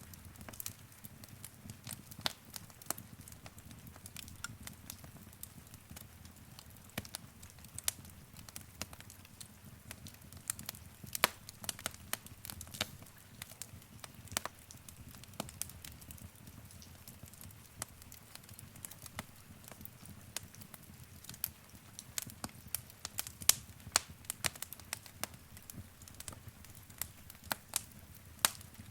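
Wood fire in a fireplace burning steadily with a low rumble and frequent sharp, irregular crackles and pops of varying loudness.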